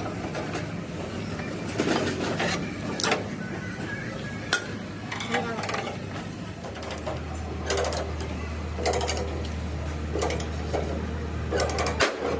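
Workshop noise: scattered sharp metal knocks and clanks over a steady low machine hum. The hum grows louder about seven seconds in and cuts off near the end.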